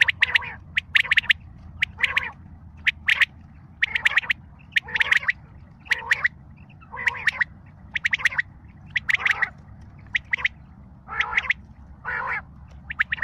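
Quail call repeated about once a second, each call a short run of quick, rasping notes. A steady low hum lies underneath.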